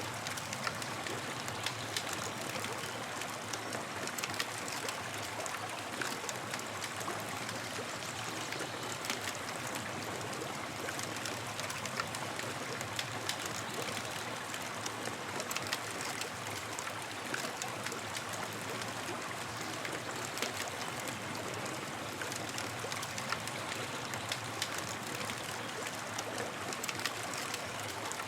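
Campfire crackling: a steady hiss with many small, sharp pops scattered throughout.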